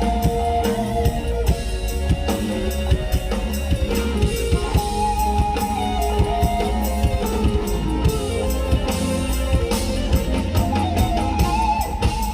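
Mor lam band music played loud through a big sound system: a drum kit keeping a fast, steady beat over bass and electric guitar, with a held, sliding melodic lead line on top.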